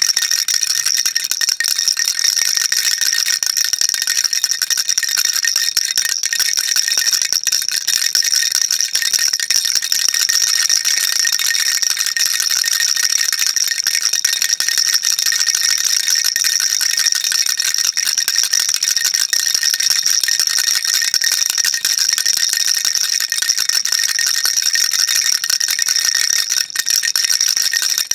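Baby rattle shaken continuously, a dense, unbroken rattling of small beads with no pauses, bright and high-pitched.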